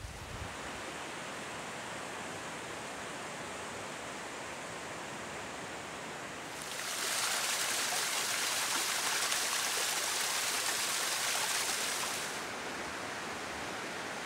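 Rushing water of a river or stream: a steady hiss that grows louder and brighter for about five seconds in the middle, then drops back.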